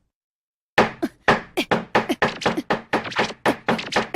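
Cartoon sound effect of busy work behind a closed door: a fast run of knocking and thunking hits, about four to five a second. It starts after a moment of dead silence.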